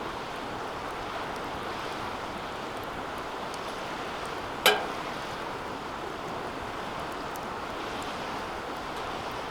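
Wood fire burning in a stainless-steel fire pit: a steady rushing hiss with faint scattered crackles. About halfway through comes one sharp, loud metallic ping, the 'kan' clang the hot fire pit gives off.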